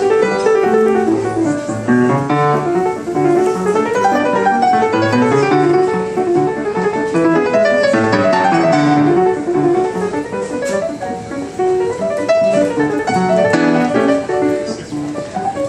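Piano playing a lively ragtime piece, quick runs of notes over a moving bass line.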